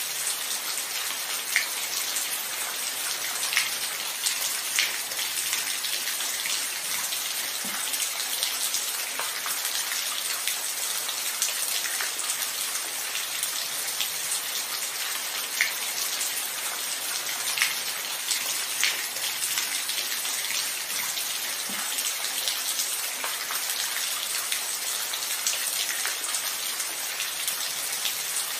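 Steady rain falling: an even hiss, with louder single drops ticking close by every second or two.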